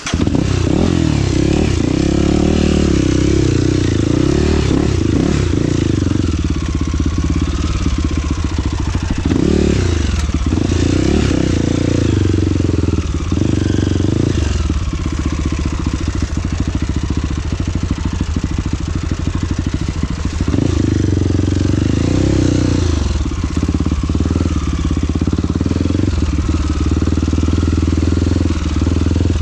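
An engine running loud, its pitch rising and falling again and again as it is revved and eased off under load, with a steady hiss of noise above it.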